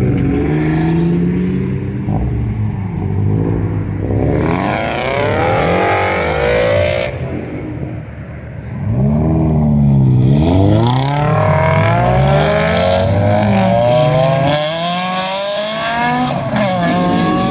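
Loud car engines revving hard, the pitch climbing and dropping again and again.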